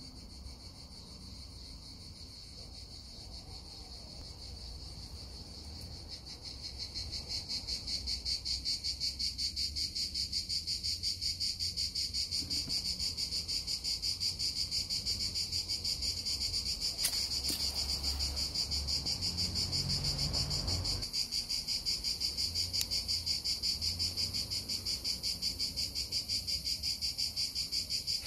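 Cricket chirping, a steady high-pitched pulsing trill that grows louder over the first several seconds and then holds level.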